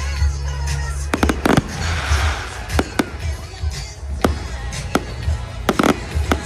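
Display fireworks going off: a string of sharp bangs, several close together, with a crackling fizz about two seconds in. Music plays underneath.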